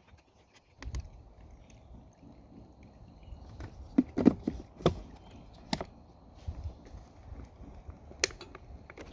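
Irregular sharp clicks and knocks of hand tools and metal engine parts being handled while a small engine is taken apart, the loudest about four seconds in, a few more through the middle, and one near the end.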